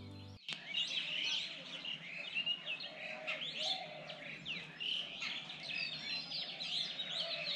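A dense chorus of birds chirping and twittering over one another without pause. A short tail of music cuts off just under half a second in.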